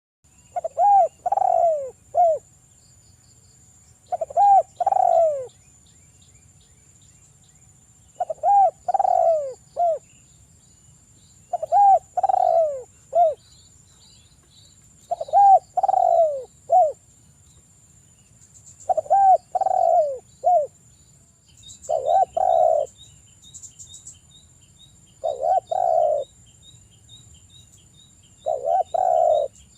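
Spotted dove (derkuku) cooing: a three-note phrase, two notes close together then a short third, repeated about every three and a half seconds. A steady high insect-like whine runs underneath, and from about two-thirds of the way in a quick ticking chirp joins at about two a second.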